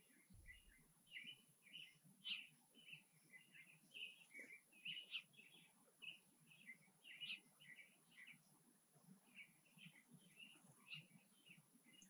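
Faint chirping of small songbirds: many short chirps in quick succession, several a second, with no pause.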